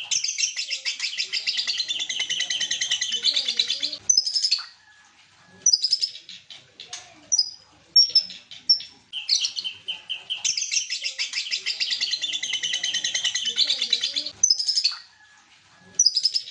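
White-rumped shama (murai batu) singing: two long, rapid, high runs of notes of about four seconds each, one at the start and one about nine seconds in, with short sharp calls and whistled notes between them.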